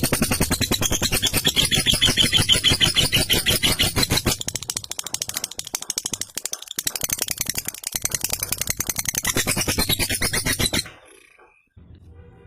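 Lovebird's long 'ngekek' chatter: a fast, rattling run of sharp notes that cuts off suddenly near the end.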